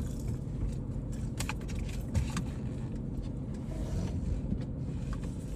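Low steady rumble inside a car cabin, with scattered clicks and light knocks of objects being handled.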